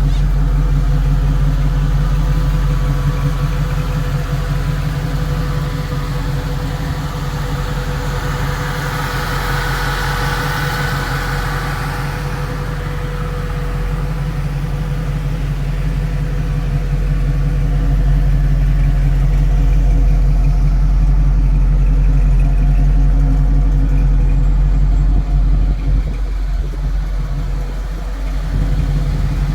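Custom 1963 Chevrolet Nova's engine running steadily while the car is driven, with road noise. A rush of noise comes through about ten seconds in, and the engine gets louder a little past the middle.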